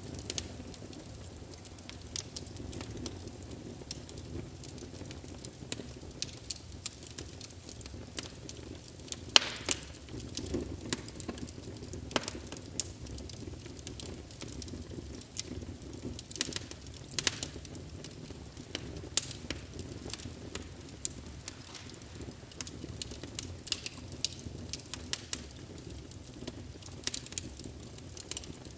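Wood fire burning in a fireplace, a steady low rush of flames with frequent irregular crackles and pops, a few sharper snaps among them.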